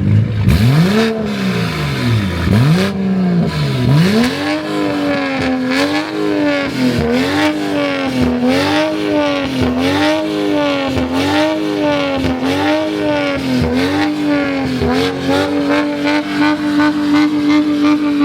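Car engine being revved hard: a few long rev sweeps, then quick rises and falls about once a second, then held steady at high revs for the last few seconds.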